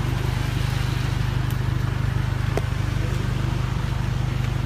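Vehicle engine idling steadily, a low even drone, with one light click about halfway through.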